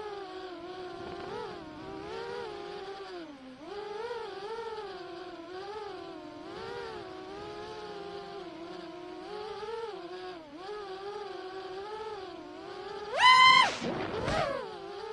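Motorcycle engine held at high revs, its pitch wavering up and down with the throttle. About 13 seconds in it revs sharply up and drops back, the loudest moment.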